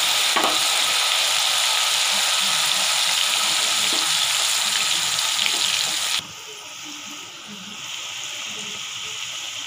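Soaked dal deep-frying in hot oil in a kadai: a loud, steady hissing sizzle as the moisture left in the damp lentils boils off under a froth of bubbles. About six seconds in it drops suddenly to a quieter sizzle that carries on.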